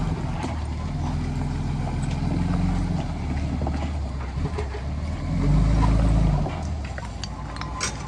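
Heavy diesel engine of construction machinery running, swelling in load twice and easing back between. A few sharp clicks near the end.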